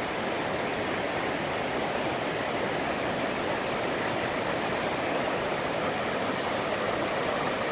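Flooded river rushing over and through a fence line: a steady, unbroken roar of fast-flowing water.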